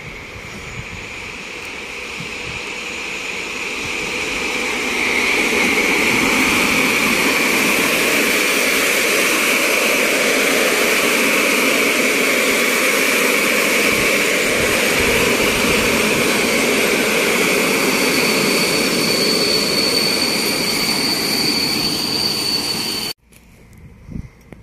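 PKP Intercity passenger train passing close at speed: a rushing rumble of wheels on rail that grows over the first few seconds as it approaches, then holds loud and steady as the coaches go by, with a thin high whine joining in the last few seconds. The sound cuts off abruptly shortly before the end.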